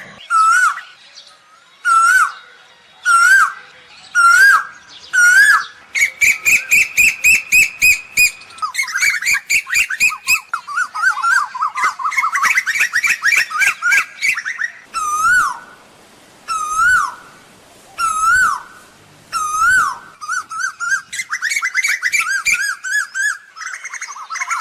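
Asian koel calling: single short notes about a second apart, alternating with fast runs of many rapid notes.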